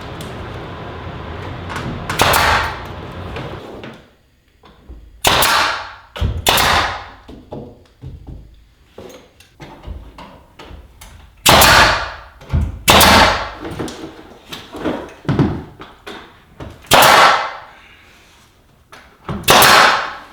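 A power tool runs steadily and stops about four seconds in. Then come about seven single sharp bangs, one to three seconds apart: a nail gun driving nails into wooden trim boards.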